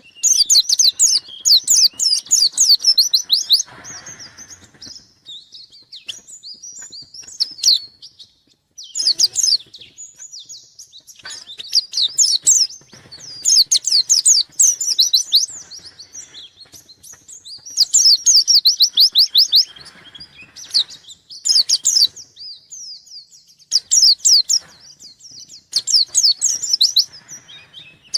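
White-eye (pleci, Zosterops) singing hard in repeated bursts of fast, high chattering notes, each phrase a second or two long with short pauses between. This is a bird in full song (gacor), calling out to a rival.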